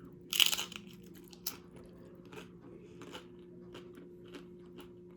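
A person biting into crunchy food, with a loud bite about half a second in and a sharp crunch a second later, then chewing it with soft, regular clicks about twice a second. A faint steady hum runs underneath.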